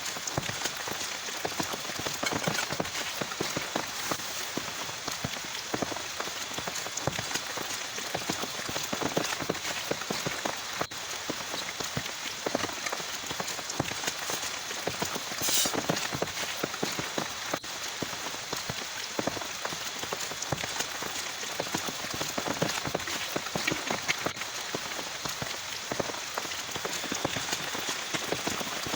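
Heavy rain falling steadily, a dense patter of drops striking a surface, with one brief sharp click about halfway through.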